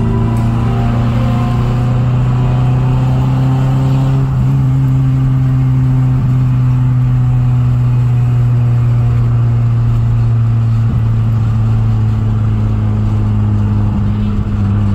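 Car engine and road noise heard from inside the cabin while cruising on a highway: a steady drone that rises slightly about four seconds in.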